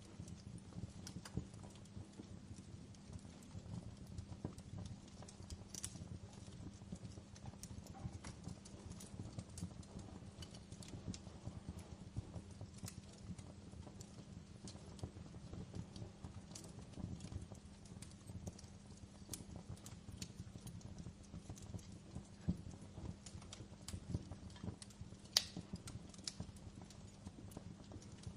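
Wood fire crackling in a fireplace: frequent small irregular pops and snaps over a low steady hum, with one sharper pop near the end.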